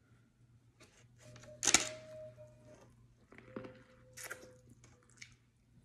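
Biting into and chewing a cob of corn on the cob up close, a few sharp wet crunches and crackles with the loudest about two seconds in.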